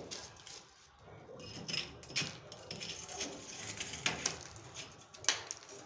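Scattered light clicks, taps and knocks of hands working with tools and fittings, with one sharper knock about five seconds in.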